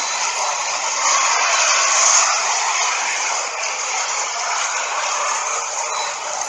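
Heavy rain falling steadily, a dense even hiss that swells briefly about two seconds in.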